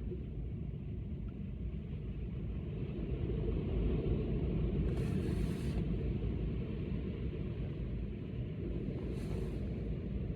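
Gale-force wind rumbling on the microphone over breaking lake surf, swelling in the middle, with two brief hissing washes of breaking waves about five and nine seconds in.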